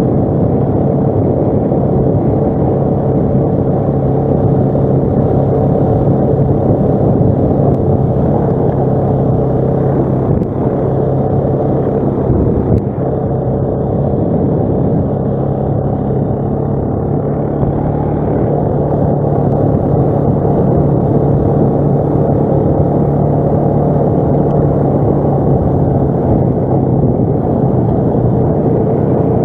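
ATV engine running steadily under way, with a steady low drone and a couple of brief dips in level partway through.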